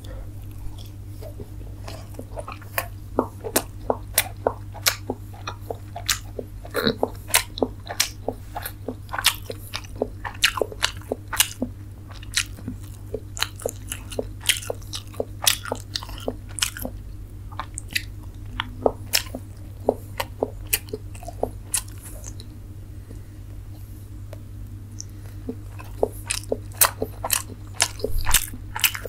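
Close-miked chewing of steamed chicken momos: a dense run of sharp wet mouth clicks, easing off for a few seconds about three quarters of the way through, over a steady low hum.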